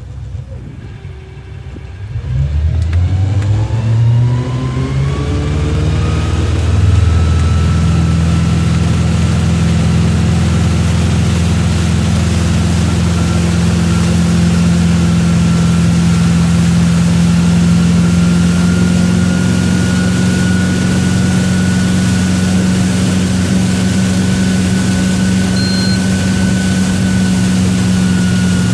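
Tow boat's engine pulling away from low speed about two seconds in, its pitch rising over several seconds, then running steadily at wakeboard towing speed.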